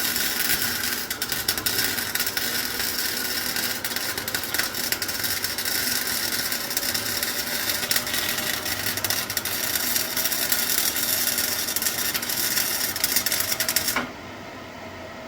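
Arc of a small 120-volt MIG welder, run with flux-core wire, crackling steadily during a continuous weld bead. It stops abruptly near the end.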